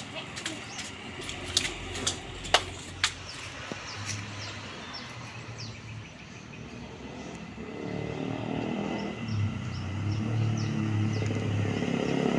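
Birds chirping in short repeated calls, with a few sharp clicks in the first three seconds. From about halfway a road vehicle's engine approaches, growing steadily louder.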